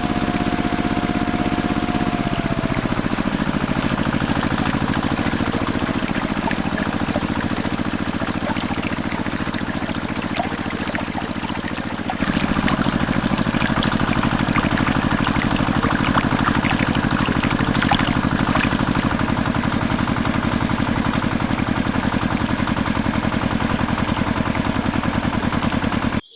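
Small engine running steadily, driving a mini water pump, with water pouring and splashing. About halfway through, the engine sound suddenly gets louder.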